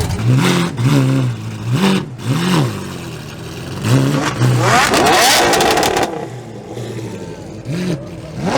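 A car engine revving in several quick blips, each rising and falling in pitch, then a longer, louder rev that climbs about five seconds in, followed by a few more blips.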